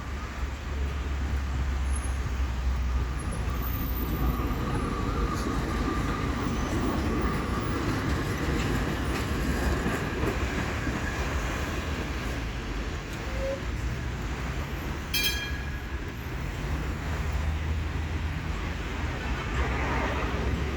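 Vienna tram running on street track, a steady low rumble of wheels and running gear with a faint whine over it. There is a single short, sharp sound about fifteen seconds in.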